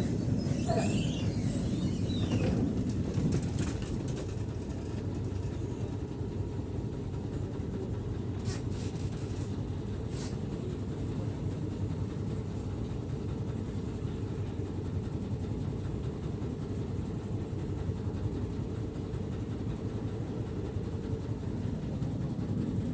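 Tram running on street rails with a steady low rumble, a brief high squeal in the first couple of seconds, and a couple of short clicks midway.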